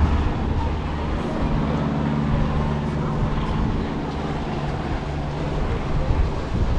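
An engine running with a steady low hum that shifts in pitch about a second and a half in.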